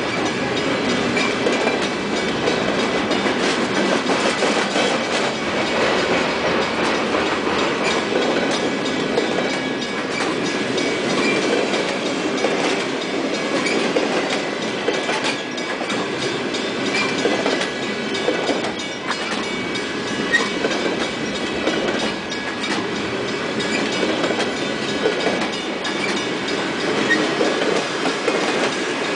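Loaded freight flatcars rolling past at close range: steady rumble of steel wheels on rail with a continuous clickety-clack of wheels over rail joints and a faint high steady squeal.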